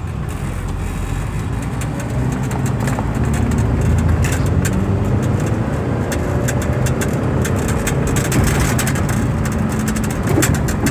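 The 1998 Mitsubishi Eclipse Spyder's 16-valve four-cylinder engine heard from inside the cabin as the car pulls away and accelerates along the road, with road noise. The engine pitch rises and falls as the transmission shifts through the gears. The transmission shifts hard and needs work.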